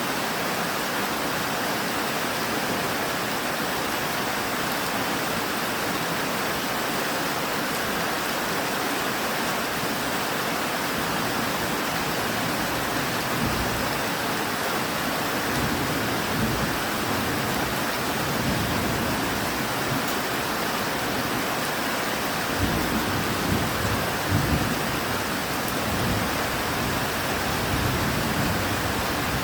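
Steady heavy rain falling, with low rolling thunder rumbling in from about halfway through, loudest a little over three-quarters of the way in.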